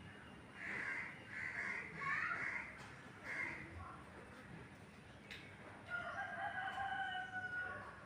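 Rooster crowing: a few short rough calls in the first few seconds, then one long held crow about six seconds in.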